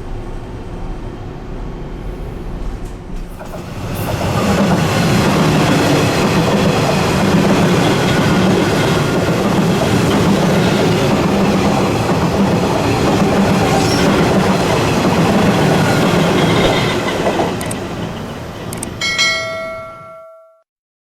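Electric train passing through the station close by, its wheels clattering over the rail joints: the sound swells about four seconds in, holds loud for over ten seconds, then fades. Near the end a brief steady horn-like tone sounds, then the sound cuts off.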